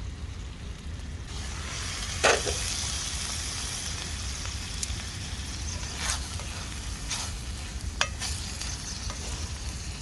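Food sizzling in a hot pan. The sizzle starts about a second in, a loud knock follows soon after, and a utensil stirring the pan makes a few taps and scrapes.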